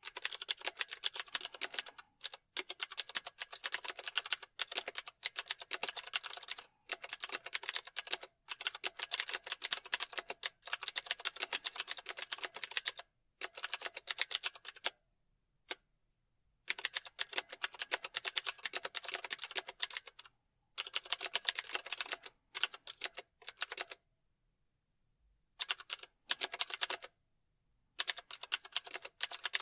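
Computer keyboard typing: fast runs of crisp key clicks in bursts of a few seconds, broken by short pauses.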